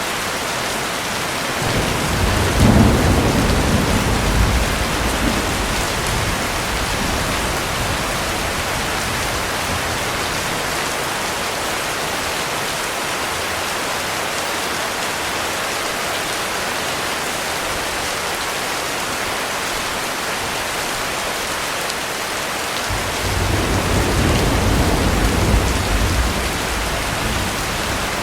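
Heavy rain falling steadily, with two rolls of low thunder: one a couple of seconds in, fading over several seconds, and another rumbling near the end.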